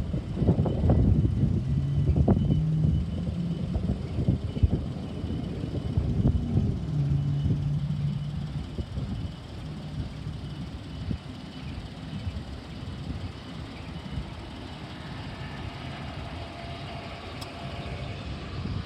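BNSF diesel freight train passing slowly: a low engine hum and rumble with scattered knocks from the wheels on the rails, loudest in the first several seconds and then easing to a quieter steady rumble.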